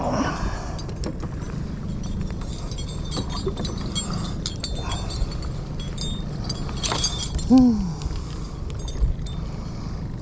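Irregular clicks and knocks of a freshly landed striped bass being handled and unhooked in a boat, over a steady low hum. A short tone falls in pitch a little past the middle.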